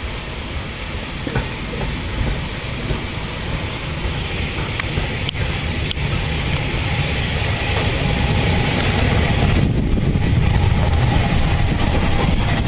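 Steam locomotive hissing steam as it runs along the line, its rumble growing steadily louder as it draws nearer.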